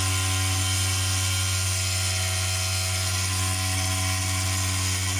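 Kubanskaya Vyuga sauna stove blowing off steam from a litre of water thrown onto its hot stones: a loud, steady drone at one pitch over a steam hiss, the stove's signature 'blizzard' sound, likened to a piglet being slaughtered.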